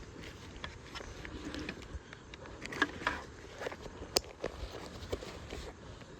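Scattered light clicks and knocks over a low background, the sharpest two about three and four seconds in.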